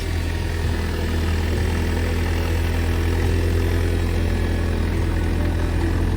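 JCB excavator's diesel engine running steadily with a low drone.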